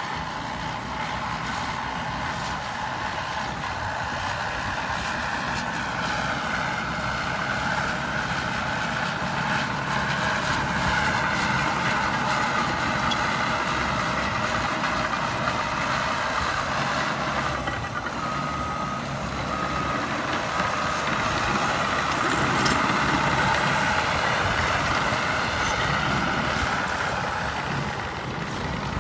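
A CAT D6R2 bulldozer's diesel engine runs steadily while working, its pitch rising and falling with the load. About two-thirds of the way through, two short beeps of a reversing alarm sound.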